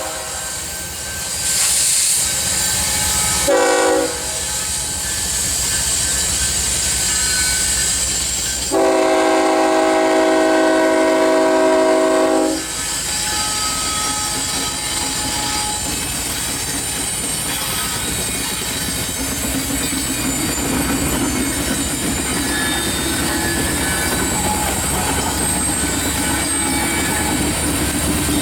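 Freight locomotive air horn sounds a brief blast about three and a half seconds in, then a long blast of about four seconds, over the steady rumble of a freight train rolling past. The train's wheels click over rail joints, and a low wheel squeal comes in during the second half.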